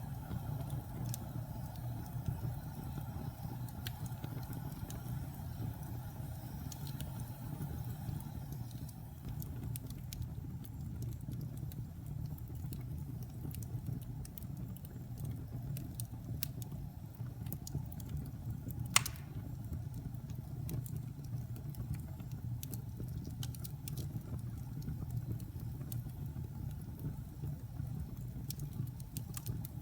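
Wood fire burning in a fireplace: a steady low rumble of flames with scattered small crackles, and one louder pop about two-thirds of the way through.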